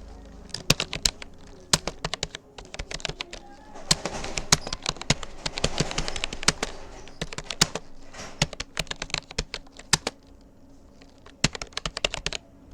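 Keys of a Rapoo computer keyboard clicking under steady touch-typing: rapid, irregular key presses with a brief pause about two-thirds of the way through.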